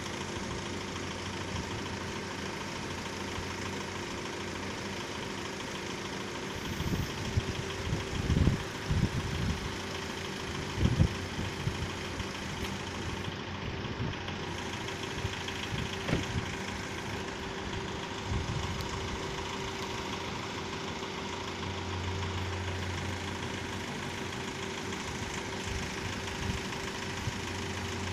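Car engines idling, a steady hum with a few short low thuds about a third of the way in; a deeper engine hum joins about three quarters of the way through.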